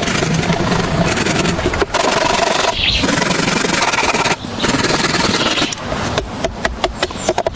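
Long rasping scraping strokes, each lasting a second or more, with short breaks between them.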